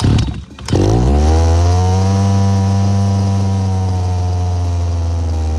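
Small two-stroke engine of an RC car being cranked in a couple of rough bursts, then catching a little under a second in. It runs up briefly and settles into a steady idle.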